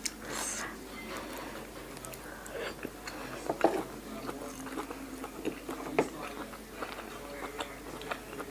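A person biting and chewing a crunchy Thai pork-sausage salad (yam moo yor) with crisp lettuce: irregular moist crunches and chews, with a few sharper clicks.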